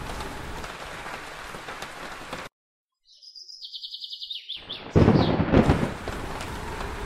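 Thunderstorm sound effect: a steady rain hiss that cuts out briefly, a rapid high chirping trill that steps down in pitch, then a loud thunderclap about five seconds in that rumbles away over a second.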